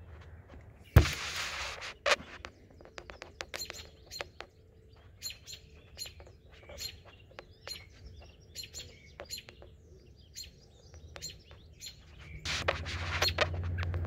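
Many short, high bird chirps, a few a second, with a loud thump and a burst of rustling about a second in and handling rustle near the end.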